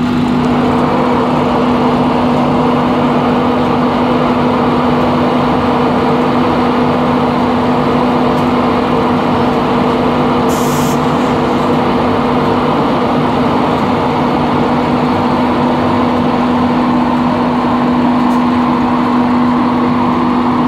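Class 91 electric locomotive departing at the head of an InterCity 225 train: a loud, steady electric hum holding one pitch over the rumble of the train, with a short hiss about ten seconds in.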